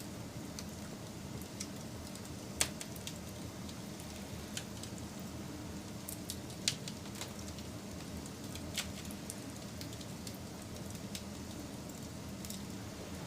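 Wood fire burning: a steady low rumble with scattered crackles and sharp pops. The loudest pops come about two and a half seconds in and again near seven seconds.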